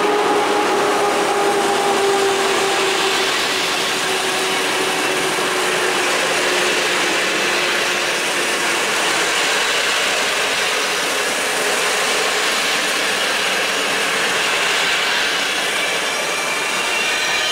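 PKP Intercity passenger coaches rolling past close by as the train pulls away, a loud, steady rumble and rattle of wheels on the rails. In the first few seconds a tone fades out while dropping slightly in pitch, and a few high tones appear near the end.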